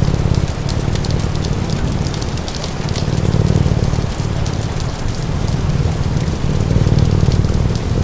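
Steady rain with a crackling log fire giving quick pops and snaps, over a low cat purr that swells and fades every few seconds.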